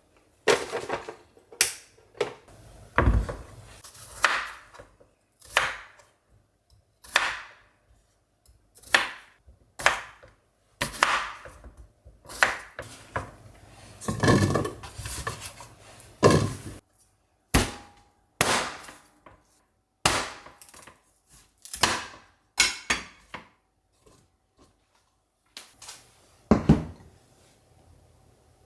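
Kitchen food preparation: irregular knocks of a knife on a wooden cutting board, with clatter of dishes and utensils, roughly one knock every second.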